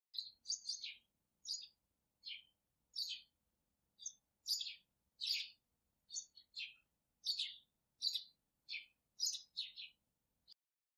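Small bird chirping: a string of short, high chirps that each slide downward in pitch, coming at irregular intervals of one or two a second.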